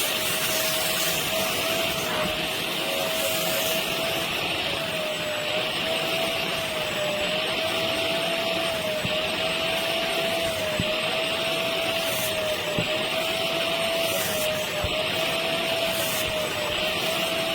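Rivenara 450 W upholstery wet vacuum's suction motor running steadily, a high whine that wavers slightly in pitch over a rushing hiss.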